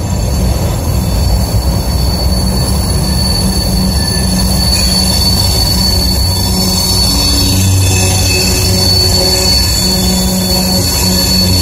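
Empty covered hopper cars of a freight train rolling past: a steady low rumble of wheels on rail with a thin, high, steady wheel squeal over it.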